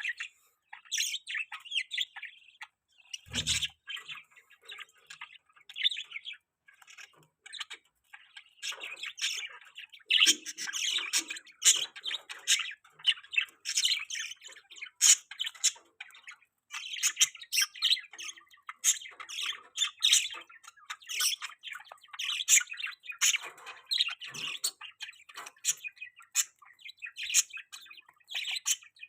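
Several budgerigars chirping and chattering in rapid, overlapping short calls, busier from about ten seconds in. A single low thump about three and a half seconds in.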